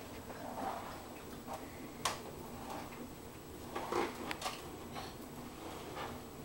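Vacuum cleaner pushed and handled by hand, giving a few scattered clicks and knocks: a sharp one about two seconds in and a quick cluster about four seconds in.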